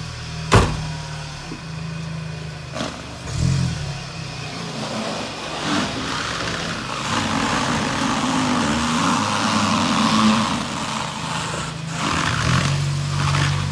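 Car engine running as a car is driven and pulls away, with a rougher, fuller stretch of engine and road noise in the middle and a steady low hum at the start and near the end. A sharp click comes about half a second in.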